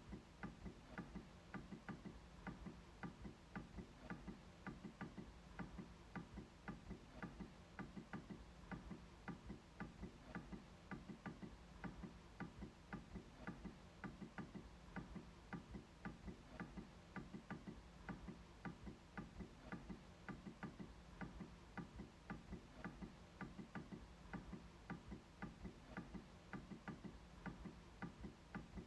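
MacBook trackpad being clicked over and over: faint, fairly regular clicks, about three a second.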